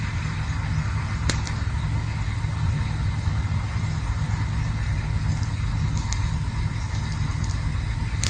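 Campfire burning with a steady low rumble and sparse sharp crackles, one clear pop about a second in.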